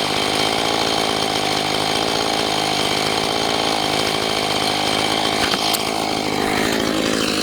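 Husqvarna 445 two-stroke chainsaw on an Alaskan chainsaw mill running at high revs while ripping a lengthwise cut through an oak log. Its note falls away near the end.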